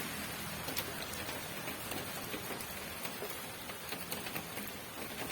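Steady rain falling, with individual drops ticking sharply at irregular moments over the even hiss.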